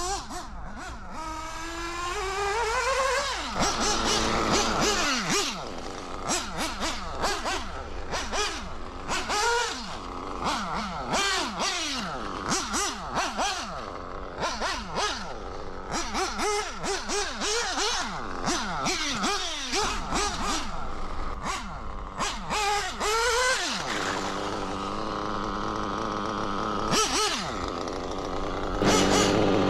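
SPower B7TT nitro engine, an O.S. B2104-based model engine, running with its throttle blipped over and over, the revs rising and falling back many times in quick succession. Near the end it settles into steadier running, then gets louder just before the end.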